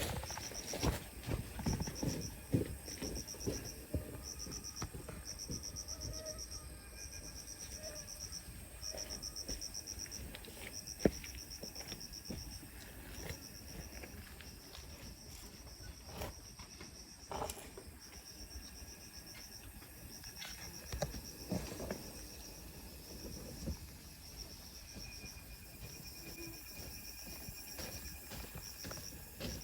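An insect chirps in short, fast-pulsed high trains, one after another, with scattered knocks and clicks beneath it. One sharp click about eleven seconds in is the loudest.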